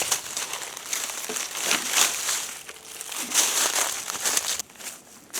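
Dry brush rustling and crackling as dead oak firewood is pulled and handled, in several swells, stopping abruptly about four and a half seconds in.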